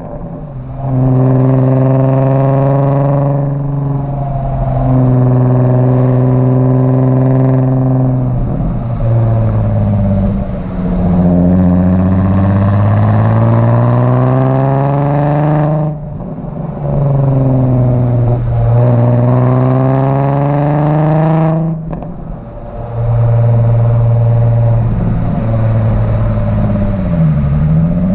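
Volkswagen MK4 Golf R32's 3.2-litre VR6 engine through a Milltek exhaust, driving under load: the engine note holds steady for several seconds, then falls and rises again, and cuts off briefly twice as the throttle closes, before pulling again.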